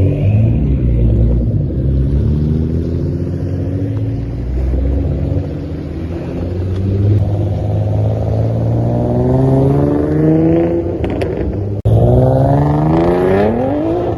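Twin-turbo Infiniti G37's 3.7-litre V6 engine accelerating, its pitch climbing steadily through the revs. An abrupt cut comes near the end, then another rising pull.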